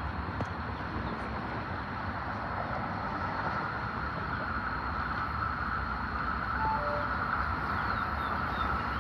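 A passing train: a steady rumble and hiss that slowly grows louder, with two short faint chirps about seven seconds in.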